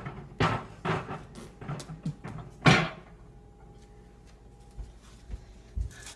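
Clunks and knocks as a microwave oven is loaded, with one loud thump a little under three seconds in as the door is shut, then a few faint clicks.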